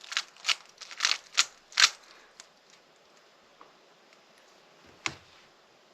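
Rubik's cube being turned by hand: a quick run of sharp clacks, about five in the first two seconds, then a pause and one more clack about five seconds in.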